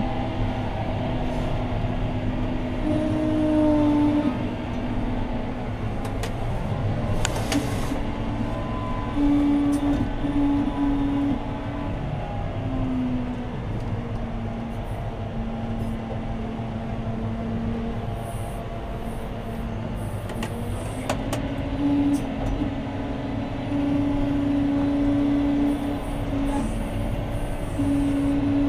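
John Deere 6215R tractor's six-cylinder diesel engine running steadily under load while pulling a plough, heard inside the cab. Its hum shifts up and down a little in pitch several times as the load changes.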